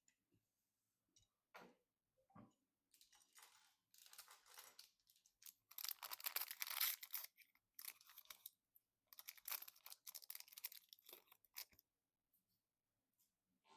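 Quiet crinkling and rustling of plastic packaging being handled, in several bursts with short pauses, loudest about six to seven seconds in, after a couple of soft knocks.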